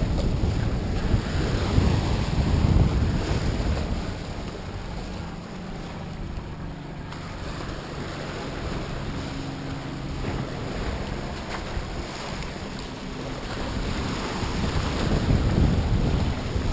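Wind buffeting the microphone outdoors, heavier in the first few seconds and again near the end, with a faint steady low hum under it in the quieter middle.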